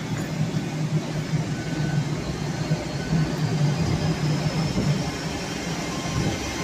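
Train pulling away from a station: a steady low engine hum, with a high whine that rises slowly in pitch as the train gathers speed.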